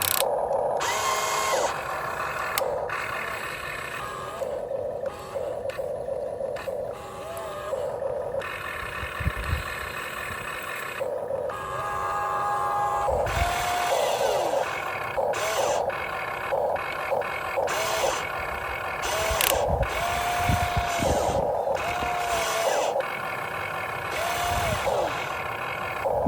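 Huina 1592 remote-control excavator's electric motors whining as the arm and bucket move, the pitch rising and falling as each motion starts and stops every second or two, with a few dull low thumps in between.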